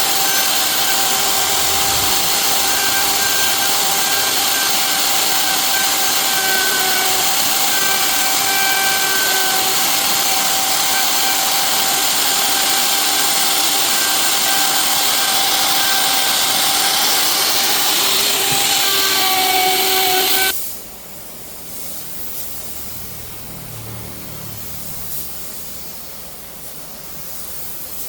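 Wood-processing machinery running loud and steady with a high whine over a hissing rush, then shutting off abruptly about twenty seconds in, leaving a quieter hiss.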